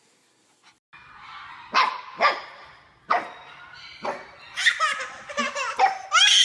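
A dog barking in short, sharp barks about a second apart, with a baby's laughter joining in loudly near the end.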